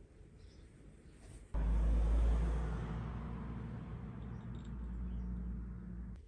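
Yamaha KT100 single-cylinder 100 cc two-stroke kart engine, freshly rebuilt, bursting into life about a second and a half in. It runs for nearly five seconds at a steady low speed, then cuts off suddenly.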